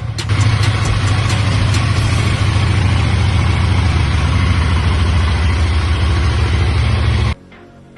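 KTM 890 Duke R's parallel-twin engine idling steadily, which cuts off suddenly near the end.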